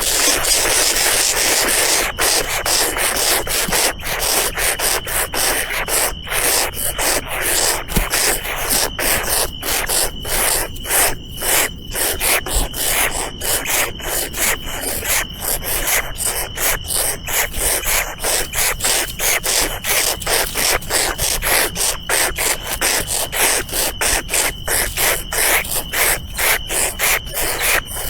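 Insect chorus: a loud rasping drone that pulses a few times a second, with a steady high whine that sets in about two seconds in.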